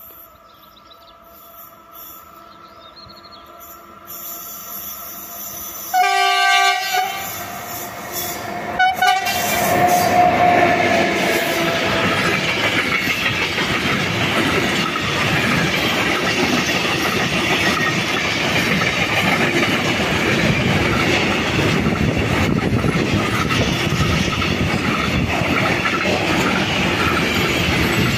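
A train approaching and sounding its horn, one loud blast of about a second, then a short second toot about three seconds later. It then passes close by with a loud steady rumble and the clickety-clack of wheels over rail joints.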